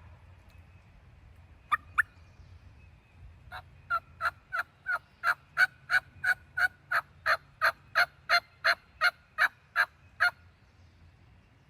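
A long series of turkey yelps, about three a second: two sharp notes, a short pause, then around twenty evenly spaced yelps that build up in loudness and hold steady before stopping.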